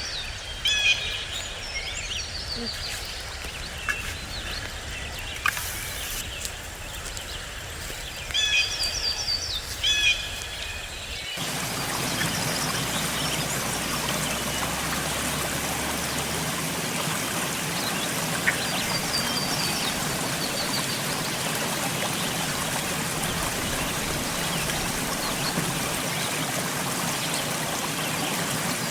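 Birds calling in short bursts of repeated chirpy notes over a quiet background. About eleven seconds in, an abrupt cut brings the steady rush of a flowing stream.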